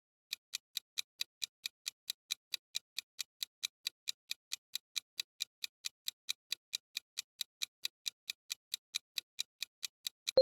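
Quiz countdown-timer sound effect: clock-like ticking, about four to five even ticks a second, running while a question waits for its answer.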